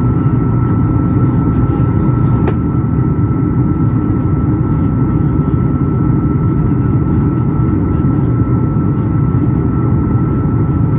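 Steady cabin noise inside a Boeing 737 MAX 8: a loud, even rumble of engine and airflow with a thin steady high whine over it. One sharp click comes about two and a half seconds in.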